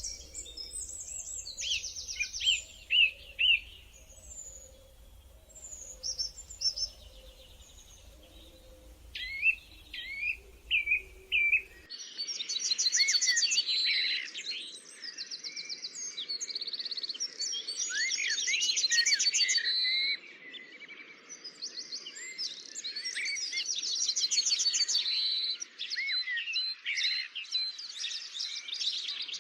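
Several songbirds singing: high chirps, quick trills and whistled phrases, sparse at first, then a denser, louder chorus from about twelve seconds in.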